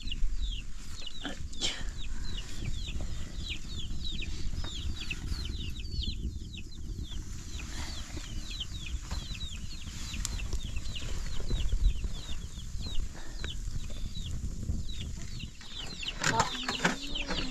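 Chicks peeping continuously: many short, high, falling chirps overlapping one another, over a steady low rumble. A burst of louder rustling noise comes near the end.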